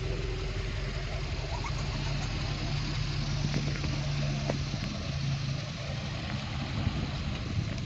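Subaru WRX STI's turbocharged 2.5-litre flat-four boxer engine idling steadily.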